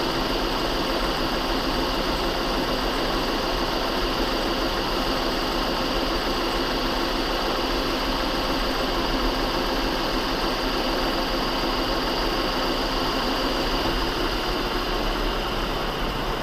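Metal lathe running steadily while a tool fed by the compound slide cuts the shaft's center true, with a few held tones over an even machine noise.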